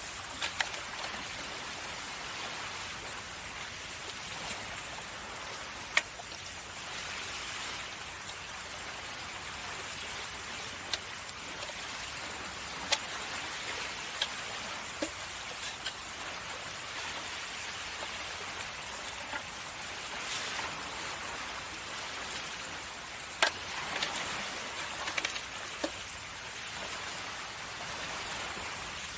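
Campfire crackling, with sharp pops every few seconds, over the steady wash of sea waves.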